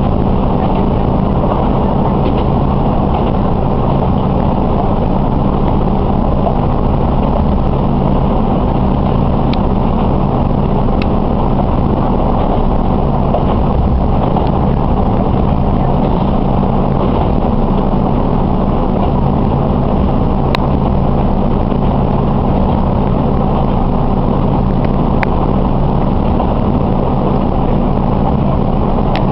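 Diesel railcar running steadily at speed, heard from inside the cabin: a low engine hum over the rumble of wheels on the rails, with a few faint clicks.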